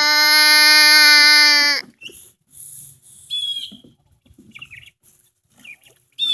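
A rooster crowing, its long steady final note ending about two seconds in, then faint high peeping and chirps from ducklings.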